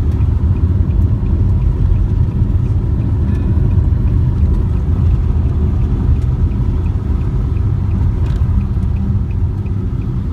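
Steady low rumble of road and engine noise inside a moving vehicle, with faint regular ticking a few times a second.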